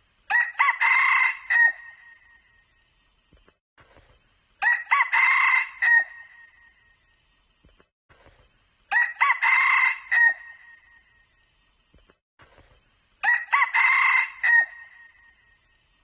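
Junglefowl cock crowing: four short crows, each about a second and a half, spaced about four seconds apart.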